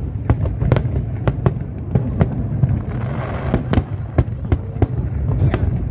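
Aerial fireworks display: a rapid, irregular string of sharp bangs, several a second, over a continuous low rumble.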